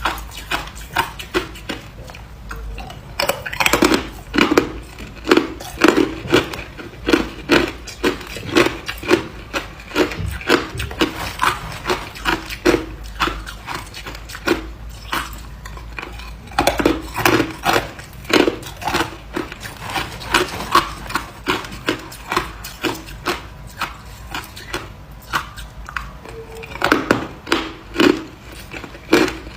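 Ice being bitten and chewed: a long run of crisp crunches, about one to two a second, with a couple of quieter spells in between.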